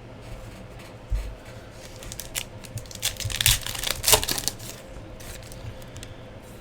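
Trading cards and their packaging being handled: a string of small clicks and brief rustles, thickest in a short flurry past the middle.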